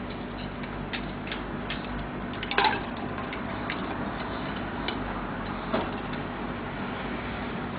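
Scattered light clicks and taps over a steady background hiss, with a short louder knock about two and a half seconds in and another near six seconds.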